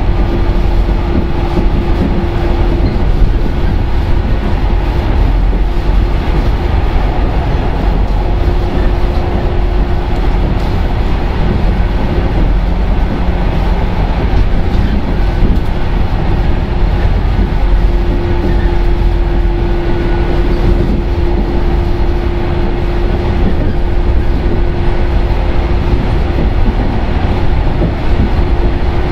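JR 115-series electric train heard from inside its motor car (MoHa 114) while running: a steady, loud rumble of wheels on rail and traction motors. A humming tone fades in and out several times.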